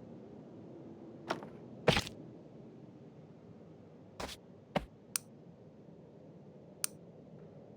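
A handful of short, sharp clicks or knocks at irregular intervals: about six in all, the loudest and slightly longest about two seconds in. Faint steady room noise lies underneath.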